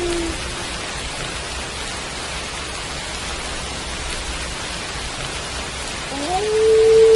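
Steady rain falling. The tail of a wolf's howl slides down and fades just at the start, and about six seconds in another howl rises and holds a steady pitch, louder than the rain.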